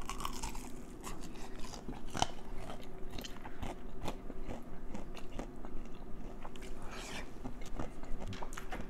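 A person biting into crispy fried chicken and chewing it close to the microphone: crunches and mouth clicks at irregular intervals.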